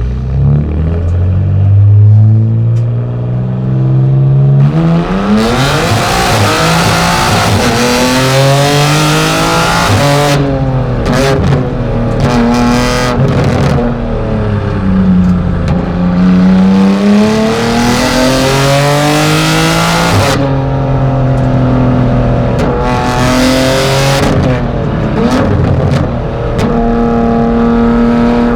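BMW M4 GT4 (G82) race car's twin-turbo straight-six heard from onboard, pulling up through the gears. Its note climbs, drops at each shift and falls away when it slows for corners, again and again. From about five seconds in, heavy wind and road noise runs under it.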